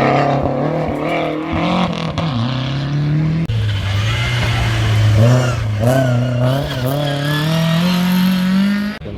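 Historic rally car engine running hard at high revs, its pitch climbing with each gear and dropping at the shifts. It cuts off abruptly near the end.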